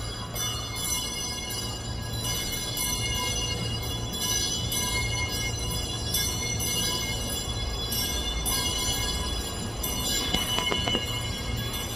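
E001 Train Suite Shiki-shima train pulling out of the platform: a steady low rumble with thin high ringing tones above it, and a few faint clicks near the end.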